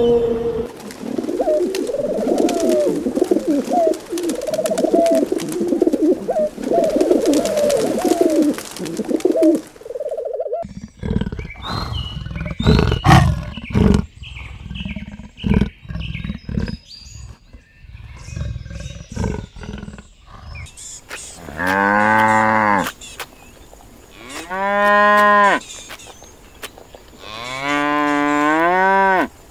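Humpback whale song, wavering calls over a crackle of underwater clicks. About ten seconds in it gives way to a leopard's irregular growls and snarls. Near the end a cow moos three times in long, drawn-out calls.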